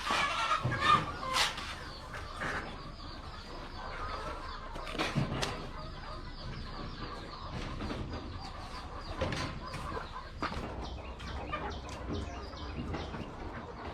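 Chickens clucking, with scattered short clicks and knocks among them; loudest in the first second or so.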